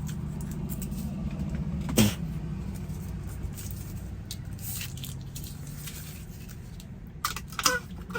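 Car engine idling steadily, with a sharp click about two seconds in and a few brief handling noises near the end.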